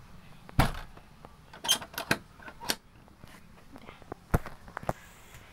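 A door being shut: a run of sharp knocks and clicks at irregular spacing, the loudest about half a second in and again a little past four seconds.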